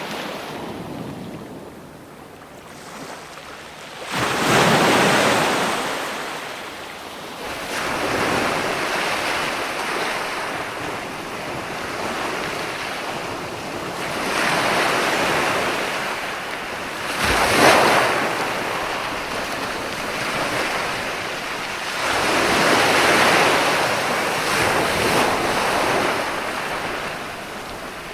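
Ocean waves breaking and washing in repeated swells, every few seconds, with wind. A sharper, louder wave breaks about two-thirds of the way through.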